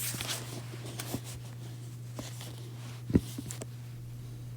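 Steady low electrical hum with scattered faint clicks and rustles, and one sharper click about three seconds in.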